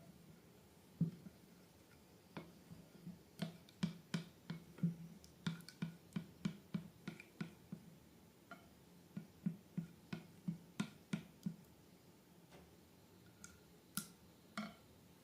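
Slime being squeezed and worked by hand, giving soft, irregular sticky clicks and small air-pocket pops, in runs of a few a second.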